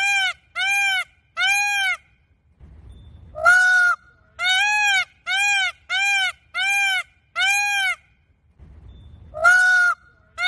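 An animal repeating a loud call that rises and falls in pitch, in runs of about five calls, a little more than one a second. A longer, harsher call breaks in twice, after about three and a half seconds and again near the end.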